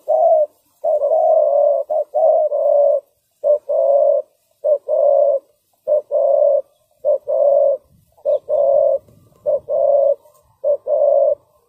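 Spotted dove cooing: a long series of repeated coo notes at much the same pitch, the calling of a male decoy dove used to lure wild doves.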